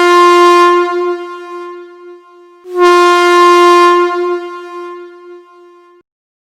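A horn sounding two long blasts at the same steady pitch, each trailing off over about three seconds; the second begins a little under three seconds in, and the sound cuts off suddenly near the end.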